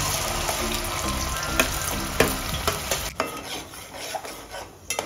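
Wet ground masala paste sizzling as it hits hot oil in a steel pot, stirred with a metal spatula that scrapes and clicks against the pot. The sizzle dies down after about three seconds, leaving occasional spatula clicks.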